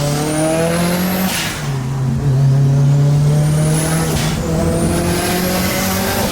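The turbocharged four-cylinder of a 500 HP Mitsubishi Lancer Evolution IV accelerating hard through the gears. The engine note climbs with a rising turbo whine, and at each gear change, about a second in, at about four seconds and near the end, the whine cuts off in a short rush of released boost.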